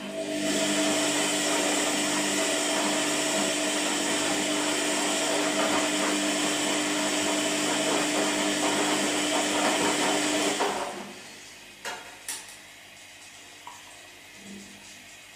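Washing machine motor running with a steady whirring hum for about ten seconds, then stopping, followed by two short clicks and a low background hum, the on-and-off pattern of a wash cycle.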